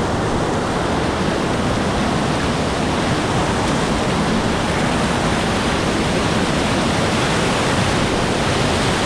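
Whitewater rapid on a mountain river rushing, a steady, loud hiss of water with no break.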